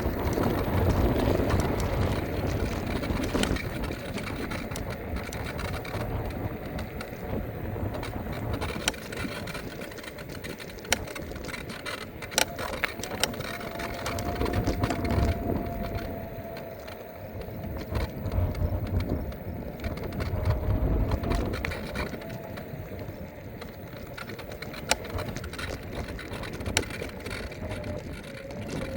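Electric scooter ride heard from the rider: steady tyre rumble and wind noise with frequent rattling clicks over bumps in the path, and a faint steady whine from about halfway through.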